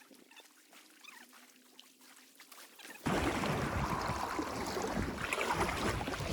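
Faint scattered chirps, then about three seconds in a sudden change to loud rushing water and wind buffeting the microphone as a kayak moves on a fast river current.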